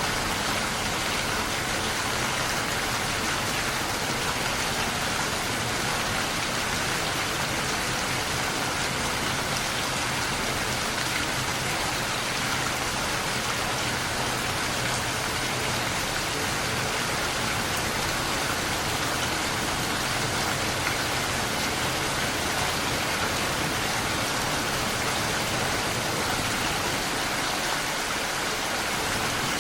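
Steady rain falling, an even hiss of many drops with no distinct strikes or changes.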